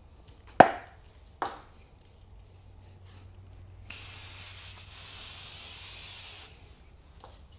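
Two sharp knocks, then cleaner sprayed in one steady hiss of about two and a half seconds.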